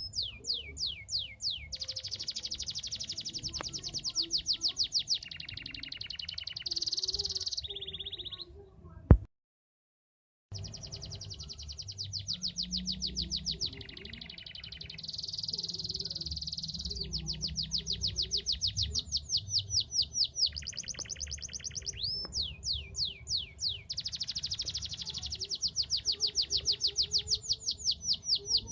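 Domestic canary singing a long, fast song of rapid trills and rolling runs of repeated notes, some of them quick falling sweeps. About nine seconds in, a sharp click and the sound cuts out completely for over a second, then the song resumes.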